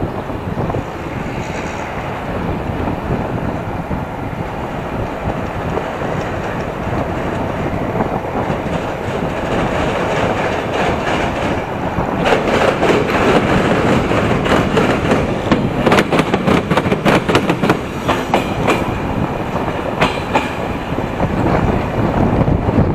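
Passenger train carriage running along the track, heard from an open window: steady rushing of wheels on rail and air that slowly gets louder. About halfway through comes a quick, irregular run of sharp clicks and clatter as the wheels pass over rail joints. This clatter lasts several seconds before the running noise settles again.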